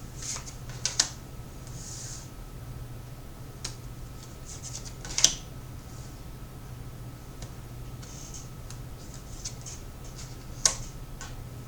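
Tarot cards being handled, with soft rustling and sliding and a few sharp card snaps. The loudest snaps come about five seconds in and again near the end.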